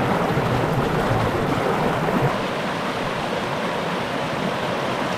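Steady rushing of a creek's flowing water, an even, dense hiss.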